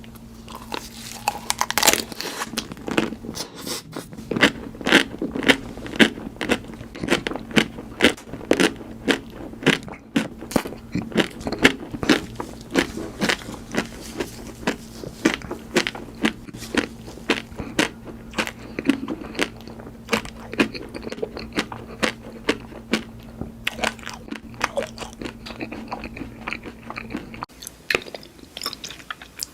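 Close-miked eating of crunchy food: many crisp bites and crunches with chewing in between. A low steady hum sits underneath and stops about two seconds before the end.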